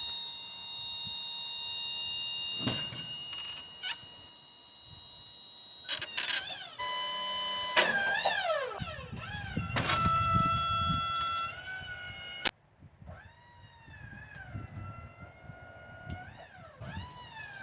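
Wood-Mizer LT35 sawmill machinery running with a high, steady whine while the log is being flipped. The pitch sags and recovers several times under load, then the sound cuts off suddenly about twelve seconds in, leaving a fainter, wavering whine.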